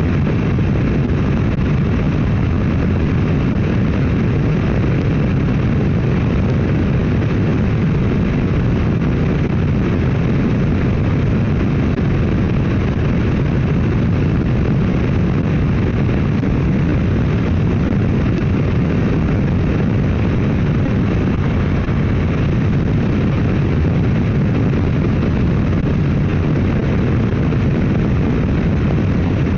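A motorcycle cruising at a steady speed: loud, unchanging wind rush mixed with engine noise, heard on the rider's camera microphone.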